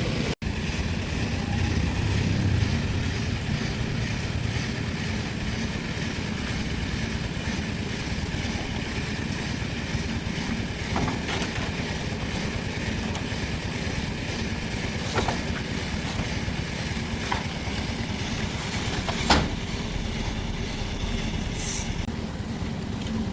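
Steady low rumble of a running vehicle, with a few light knocks and clicks; the sharpest comes late on.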